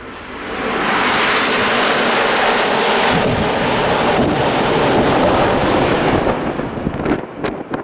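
Coupled E5- and E6-series Shinkansen train passing through the station at high speed: a loud rushing sound that builds about a second in and holds steady for about five seconds, then gives way to gusts of wind buffeting the microphone in the train's slipstream.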